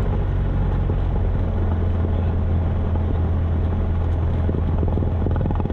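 1972 Cessna 172's four-cylinder piston engine and propeller running steadily at low taxi power, heard from inside the cabin as a constant low drone.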